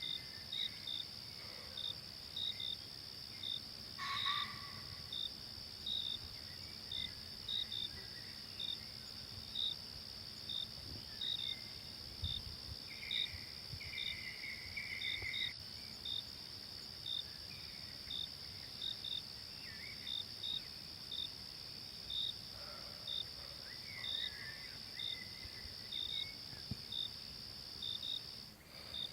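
A forest insect chorus: a continuous high-pitched drone with short, high chirps repeating about twice a second, and a few brief bird calls scattered through it. The drone dips briefly near the end.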